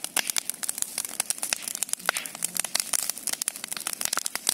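Large bonfire crackling and popping: a dense, irregular stream of sharp snaps.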